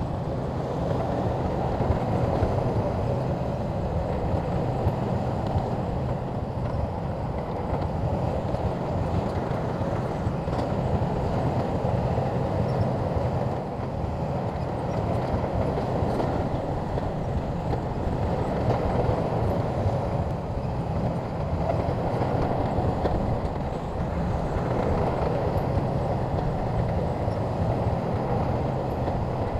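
SHANTUI crawler bulldozer's diesel engine running steadily under load while pushing dirt, its level swelling and easing a little.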